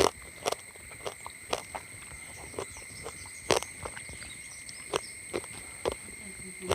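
Irregular crisp clicks and crunches of someone chewing fried quail, bones and all, over a steady high-pitched drone of crickets or similar insects holding two pitches.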